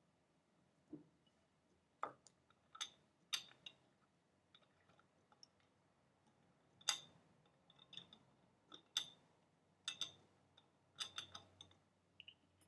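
Irregular soft clicks and taps, close to the microphone, about a dozen scattered with short quiet gaps between: objects being tapped and handled.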